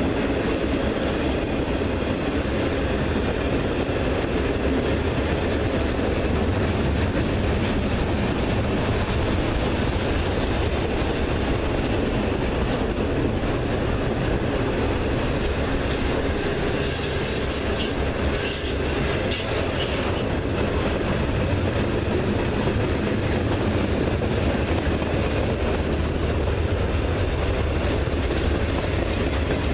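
Train cars rolling past on the rails, a steady loud rumble with wheel clatter, and wheels squealing a little past the middle.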